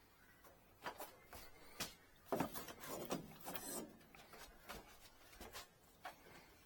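A run of light knocks and clatters, like objects being handled, busiest and loudest about two to four seconds in.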